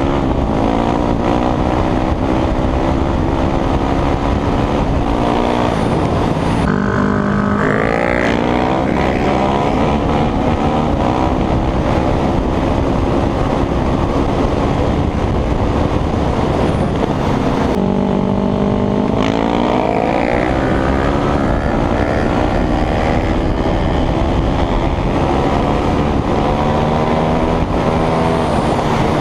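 Motorcycle engine running under load while riding, holding a steady pitch for long stretches with wind rushing past, and rising in pitch twice as it accelerates.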